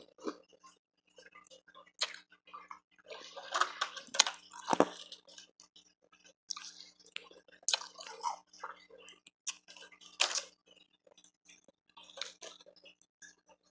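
Close-up ice eating: irregular crunches and clicks of hard, refrozen ice with wet sounds between them, thickest about a third of the way in and again past the middle.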